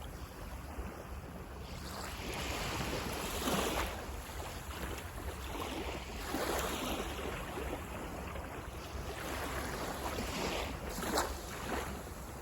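Waves breaking and washing up the beach, the surf swelling and falling back every few seconds, over a low wind rumble on the microphone.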